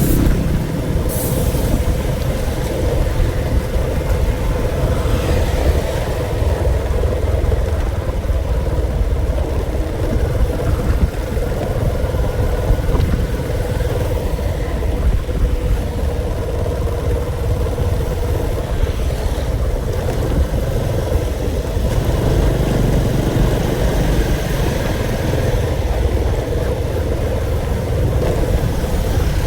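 A motor vehicle running steadily, a heavy low rumble with a steady hum.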